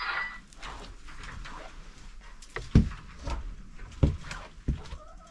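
A few dull thumps or knocks, the loudest about three seconds in, with a chicken clucking briefly at the start.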